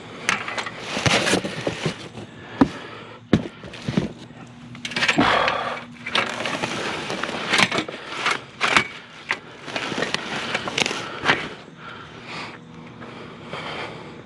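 Metal bed frames being handled and loaded: irregular clanks and knocks with scraping in between, metal dragging on metal.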